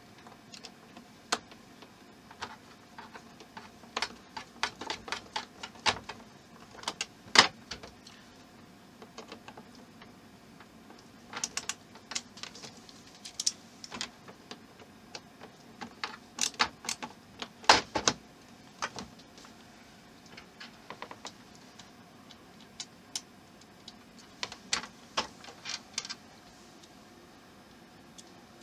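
Irregular small clicks and taps of plastic model parts being handled and pressed together, coming in scattered clusters with short pauses between them.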